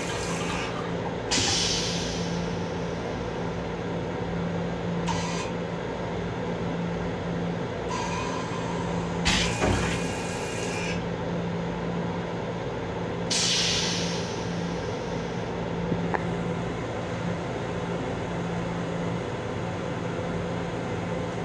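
Steady hum of a Long Island Rail Road M7 electric railcar, heard from inside its restroom, with several short hisses, the longest about nine seconds in.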